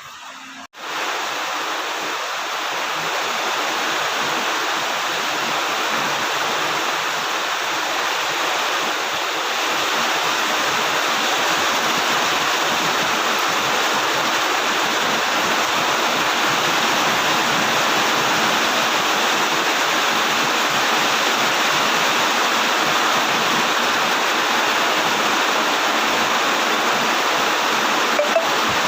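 Heavy rain falling steadily, a dense even hiss that begins abruptly just under a second in.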